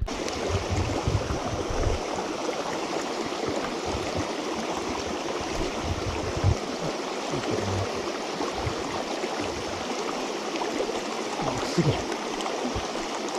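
Mountain stream water rushing steadily over rocks, with occasional low thumps on the microphone.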